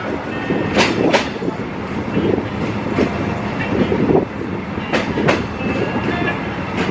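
Tourist train running along an old branch track, with a steady rumble from the wheels and running gear. Wheels clack over rail joints, in a double clack about a second in and again about five seconds in, with lighter single clicks between.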